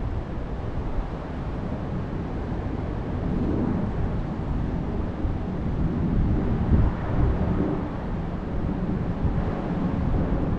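Wind gusting on a mountainside, buffeting the microphone as a low rumble that swells and eases.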